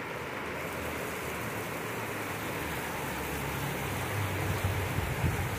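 Heavy rain pouring steadily onto a flooded street. A motorcycle engine's low hum grows louder in the second half.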